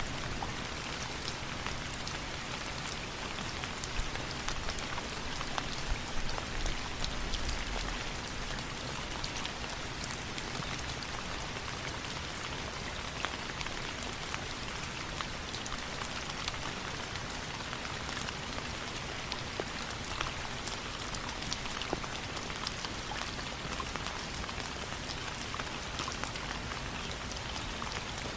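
Steady rain falling, an even hiss dotted with many small sharp drop ticks. A brief low rumble comes about seven seconds in.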